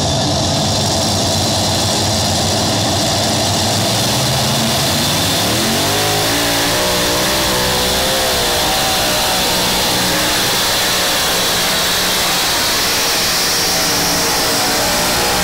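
A pulling vehicle's engine running low, then revving up about five seconds in and held at high revs, with a loud steady hiss over it.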